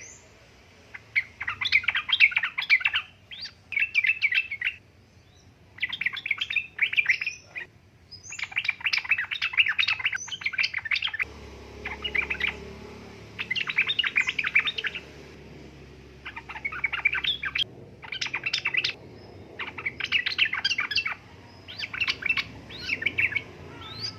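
Yellow-vented bulbul (trucukan) singing: repeated short phrases of rapid, bubbly chattering notes, a new burst every second or two. A low background hum comes in about halfway through.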